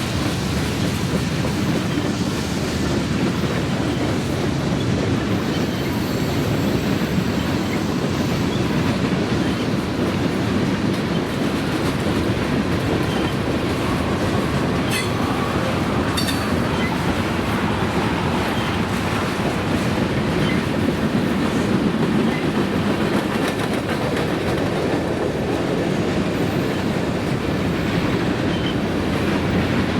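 Freight train cars rolling past: a steady rumble and clatter of wheels on the rails, with a couple of sharp metallic clicks about halfway through.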